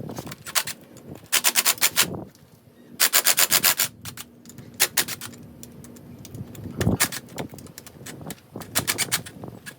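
Hand ratchet clicking in quick runs of about ten clicks a second as bolts are backed out of a 1997 Honda CR250's engine side case, with short pauses and odd single clicks between runs.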